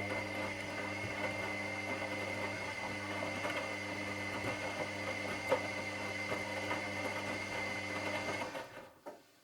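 Washing machine motor turning the drum during the wash cycle: a steady hum with a high whine over the churning of the load. It stops about eight and a half seconds in, and there is a short click just after.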